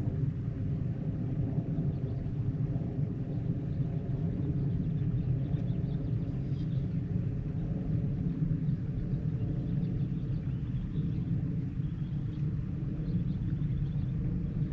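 A boat motor running steadily: a low, even drone with a hum.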